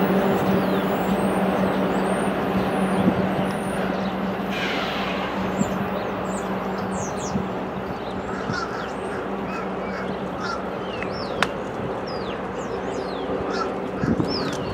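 A train's rumble slowly fading away under a steady low hum, with small birds chirping more and more often from about five seconds in.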